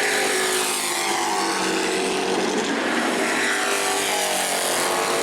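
A pack of Pro Trucks racing around the short asphalt oval, several engines running at high revs together, with pitches that rise and fall as the trucks pass.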